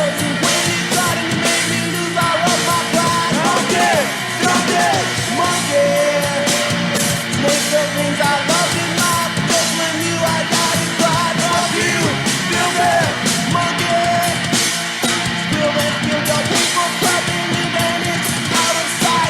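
Punk rock band playing a full-band song with drums and yelled singing.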